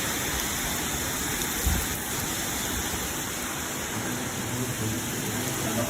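Heavy rain pouring down in a steady, dense hiss, with a brief low rumble about two seconds in.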